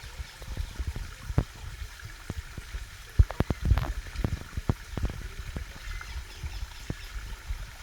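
Small waterfall spilling into a pond: water splashing and trickling, with irregular sharp drips and low thumps.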